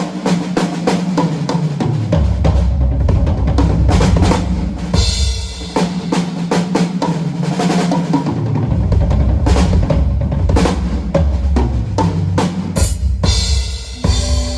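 Drum kit played live, a steady beat of kick, snare and cymbal strikes, over a low bass line that moves to a new note every few seconds.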